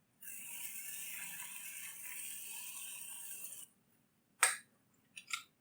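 Food sizzling in a hot pot for about three seconds, cutting off suddenly, followed by one sharp click and then two quieter clicks near the end.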